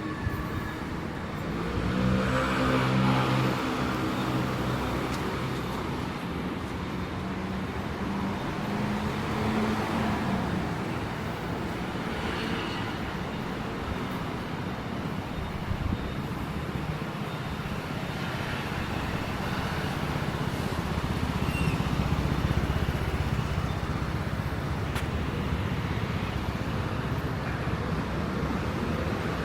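Street traffic: vehicles passing on wet road, with one engine's low hum standing out from about two to ten seconds in.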